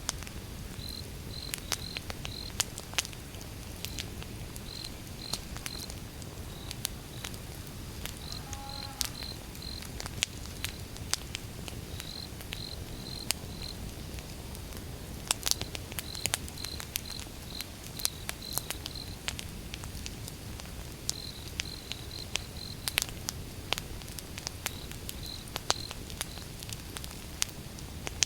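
Wood fire crackling, with irregular sharp pops over a low rumble of burning. A cricket chirps in the background in short groups of repeated high pulses.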